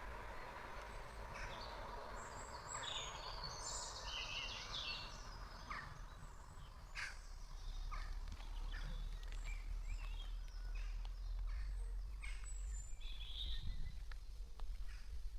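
Small birds chirping and singing in short high calls, over a low outdoor rumble, with the noise of a passing vehicle dying away in the first few seconds.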